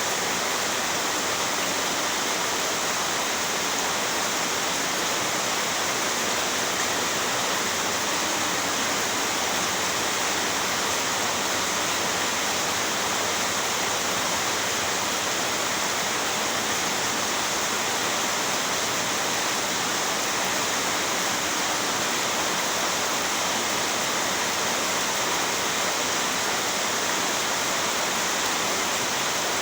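Heavy rain falling, a dense steady hiss with no breaks or changes in level.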